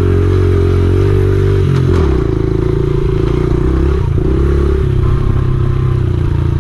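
Honda XR70R pit bike's small single-cylinder four-stroke engine running, its note dropping about two seconds in and then rising and falling with the throttle.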